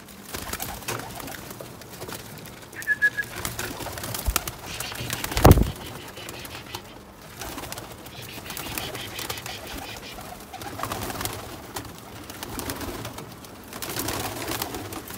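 Domestic pigeons cooing and stirring, with wing flaps and rustles as they are let out of the loft. There is a loud knock about five and a half seconds in.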